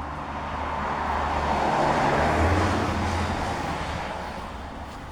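A road vehicle passing by: its engine and tyre noise swells to a peak about two seconds in, then fades away.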